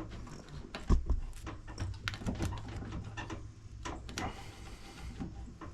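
Scattered clicks and knocks of a hand grease gun being fitted and worked on a riding mower's axle grease nipple, with one louder knock about a second in, over a low steady hum.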